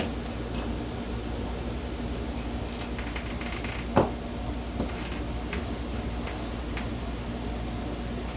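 Scattered light metallic clicks and taps of hand tools and small engine parts being handled, the sharpest knock about four seconds in and a brief high clink near three seconds, over a steady low hum.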